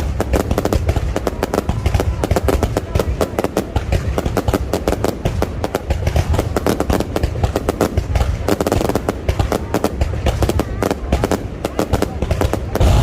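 Fireworks display: a dense, unbroken barrage of rapid bangs and crackles, many per second, over a deep rumble.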